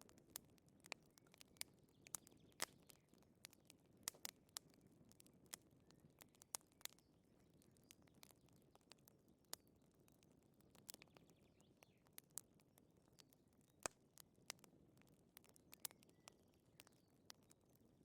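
Wood fire crackling and popping: irregular sharp snaps over a soft low hiss, a few pops clearly louder than the rest.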